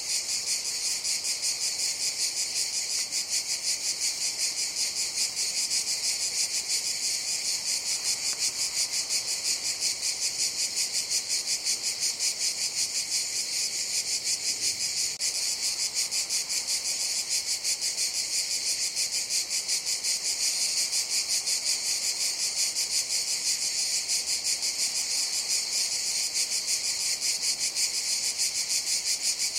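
Cicadas calling in a continuous, high-pitched buzz with a fast, even pulse, never breaking.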